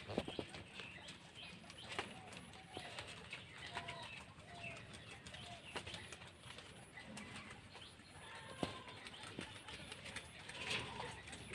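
Faint, scattered short bird calls, with soft clicks and rustles of rabbits and guinea pigs chewing leaves.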